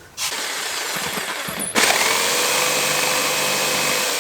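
Electric jigsaw running and cutting wood to widen a porthole opening, becoming louder and steadier about two seconds in.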